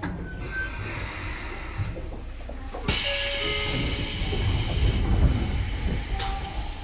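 Sotetsu 9000 series electric commuter train arriving at a station: a low running rumble, then about three seconds in a sudden loud hiss of compressed air that lasts about two seconds and fades away.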